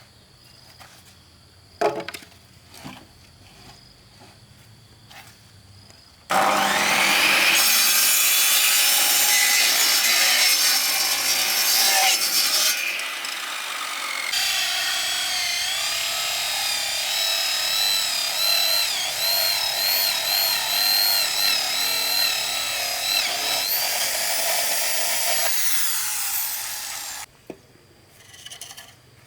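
A power saw cutting through bamboo, its motor whine wavering in pitch as it bites, running for about twenty seconds before cutting off suddenly. A single knock comes about two seconds in, before the saw starts.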